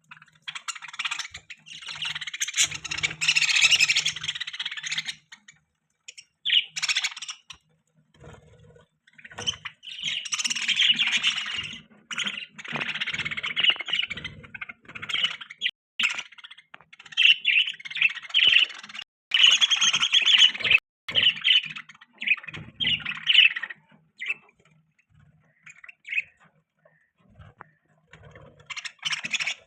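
Budgerigars chirping and chattering in bouts a few seconds long, with short pauses between.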